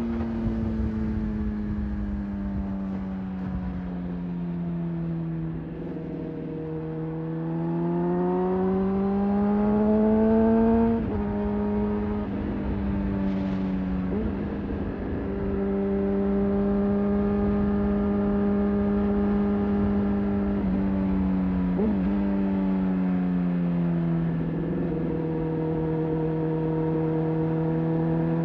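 Honda CBR600RR inline-four engine under way. Its note falls as the bike slows, then climbs under throttle, drops sharply at a gear change about eleven seconds in, and holds steady at cruise. Near the end it eases off and settles again, with a low rush of wind and road noise underneath.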